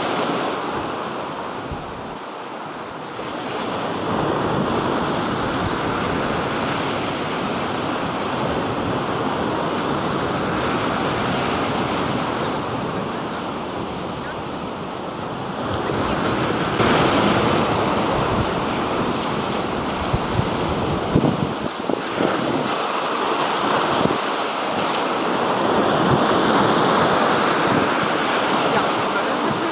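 Black Sea waves washing onto the shore, the surf swelling and easing every several seconds, with wind on the microphone.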